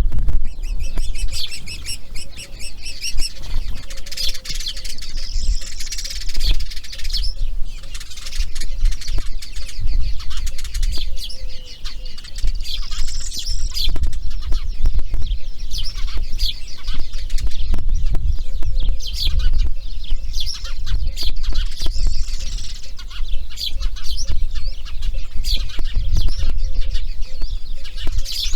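Birds calling throughout, a dense run of rapid high chips and short rising-and-falling whistles, over a steady low rumble.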